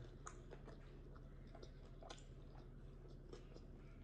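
Faint chewing of a mouthful of chicken wing, with scattered small wet mouth clicks and smacks over a low steady room hum.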